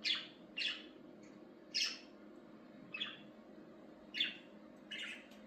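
Small pet birds chirping: about eight short, high chirps at uneven spacing.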